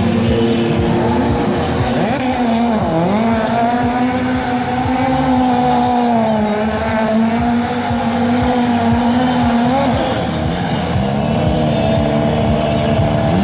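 Racing motorcycle engine running at high revs. Its pitch drops sharply about three seconds in and climbs back, then holds with slow small rises and falls.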